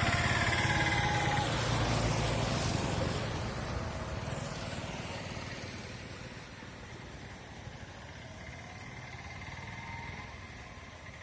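A motor vehicle's engine passing close, then dying away steadily as it moves off.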